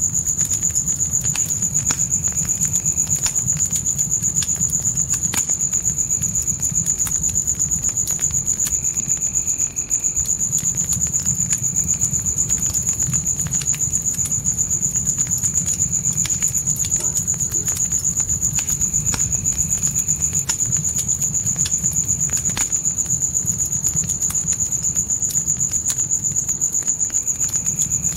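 Crickets trilling in one continuous high-pitched tone, with faint shorter insect calls coming and going, over a campfire's irregular crackling and a steady low rumble of the flames.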